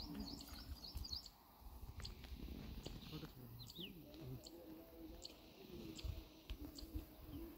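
Small birds chirping faintly: short high chirps, a quick run of them at the start and then single chirps about once a second, with a low wavering call underneath.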